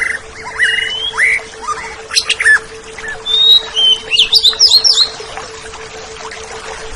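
Oriental magpie-robin (kacer) singing a varied run of clear whistles and chirps, some notes rising and some falling, with a quick burst of sharp, high, falling notes about four seconds in.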